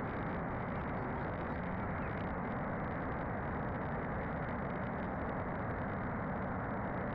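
Motor scooter on the move: a steady rush of wind noise over the microphone with engine rumble underneath.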